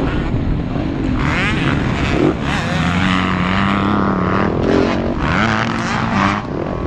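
Several motocross bikes racing close together, their engines revving up and down through the gears as they pass and overlap.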